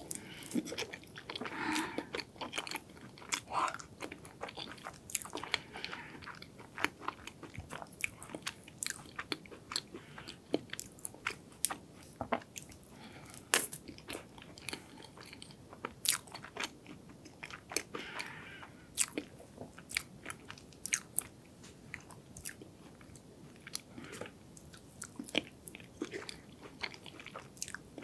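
Close-miked eating of a hazelnut chocolate cake: chewing, with many small sharp crackles and wet mouth sounds.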